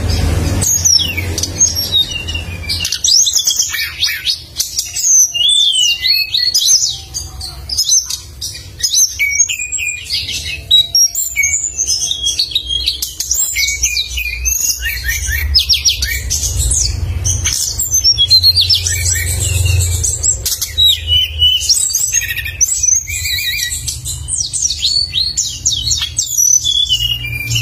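A caged songbird singing gacor: a continuous, rapid, varied stream of sharp high whistles and chirps, with quick bursts of piercing notes (tembakan). A steady low hum runs underneath.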